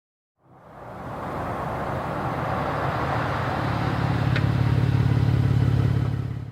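Ford F-150 3.5L EcoBoost twin-turbo V6 running at a steady, even pitch through a Flowmaster Outlaw cat-back exhaust, fading in about half a second in and growing louder.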